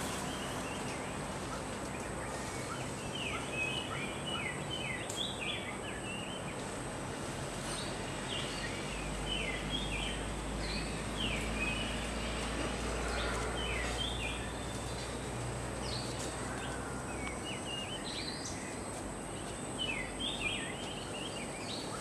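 Birds calling in the trees: clusters of short, high, falling chirps, over a steady high-pitched hum, with a low rumble for several seconds in the middle.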